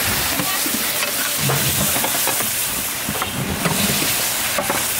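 Chicken pieces sizzling and frying in hot oil and curry paste in a large metal pan, stirred with long-handled metal stirrers that scrape and knock against the pan and the meat.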